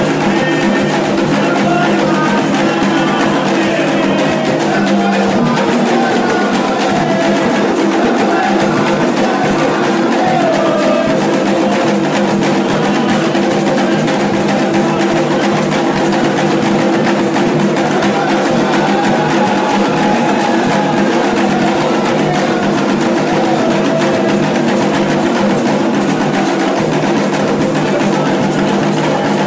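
Candomblé ritual music: hand drums and a struck percussion instrument keep up a steady, driving rhythm under voices singing.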